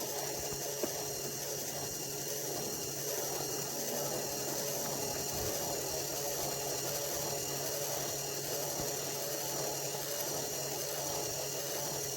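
Small electric motor running at a steady speed with a constant whine.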